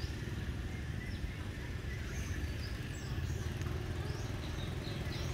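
Small birds chirping now and then from about two seconds in, over a steady low rumble.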